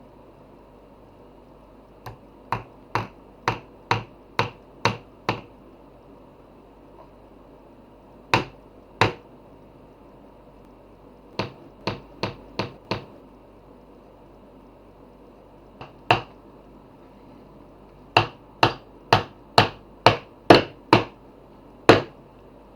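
Hammer striking wood in runs of quick, even blows, about two a second: a run of about eight, a pair, a quicker run of five, a single blow, then a run of about nine near the end.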